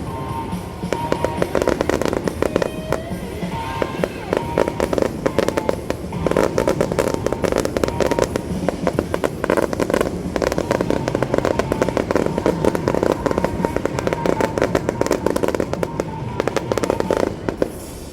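Aerial fireworks going off in a dense, continuous crackle of many small reports, over the display's background music.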